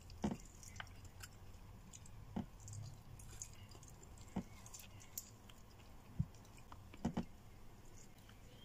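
Faint close-up chewing and mouth sounds of a person eating meat with her fingers, with scattered soft smacks and clicks, the loudest ones a second or two apart, over a low steady hum.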